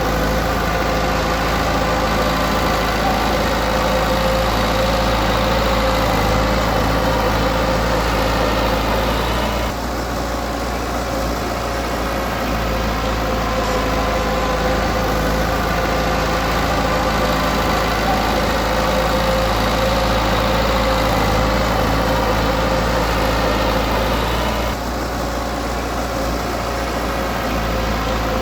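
Diesel engine of a Komatsu D20P bulldozer running steadily. Its note drops and softens briefly about ten seconds in and again near the end.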